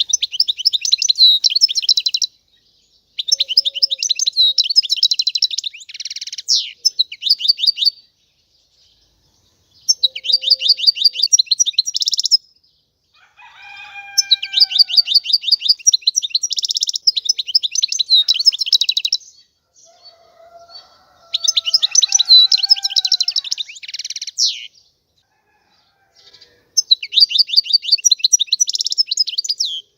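European goldfinch singing: phrases of fast, high twittering trills, each a couple of seconds long, broken by short pauses. Fainter, lower sliding calls come in twice around the middle.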